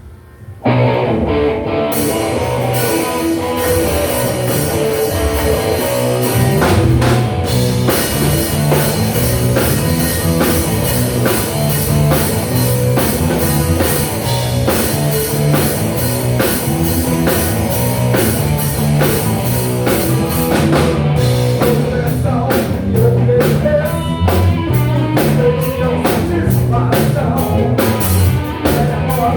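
Live rock band playing a song with drum kit, electric guitar and bass, kicking in under a second in. Singing comes in over the instruments, and the drumming gets busier on the cymbals about two thirds of the way through.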